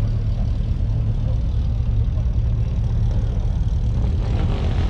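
Car engine running with a steady low rumble, with a brief rise of hiss about four seconds in.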